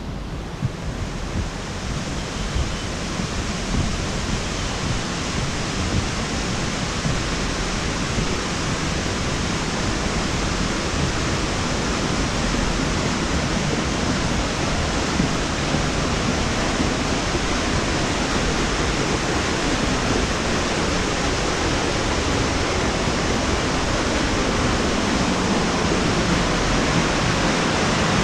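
Steady rush of a waterfall pouring into a pool, growing gradually louder.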